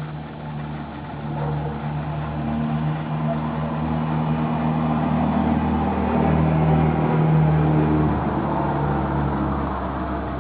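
A motor vehicle's engine running, its note shifting in pitch and growing louder toward about seven seconds in before easing off slightly.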